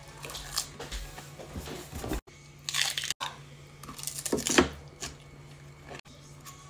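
A person biting and chewing crisp romaine lettuce and grilled pork close to the microphone: several short crunches and mouth noises, the loudest about four and a half seconds in.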